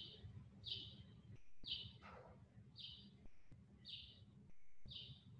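A bird repeating a short, high chirp about once a second, faint against a low background hum.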